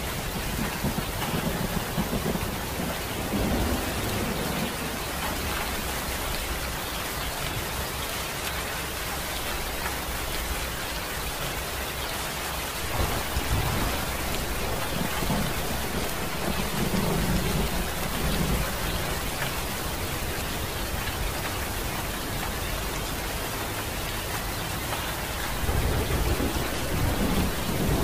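Steady, heavy rain falling, with low rolls of thunder swelling up near the start, midway and near the end.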